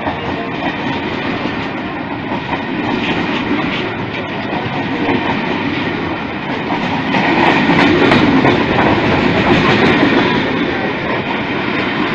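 Special train's wagons rolling past close by, the wheels clattering on the rails. It gets louder about seven seconds in.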